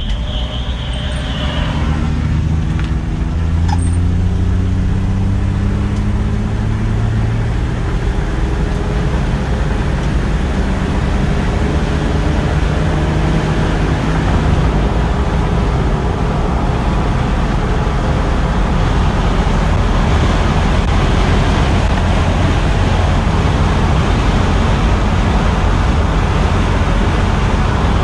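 The 1966 Mustang's Sprint 200 inline six pulling away, its pitch rising steadily over the first dozen or so seconds. It then runs at a steady cruise with road noise.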